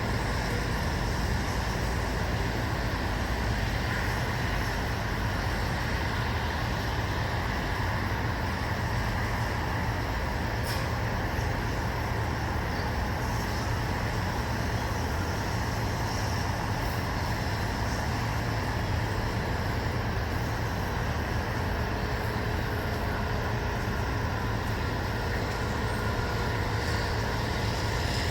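Steady white-noise backdrop: an even rushing hiss over a deep low rumble, unchanging throughout, with one faint tick about eleven seconds in.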